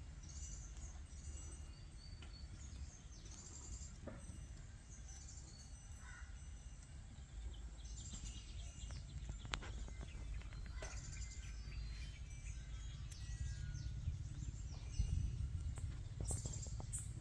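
Several birds chirping with short, scattered high calls over a steady low rumble.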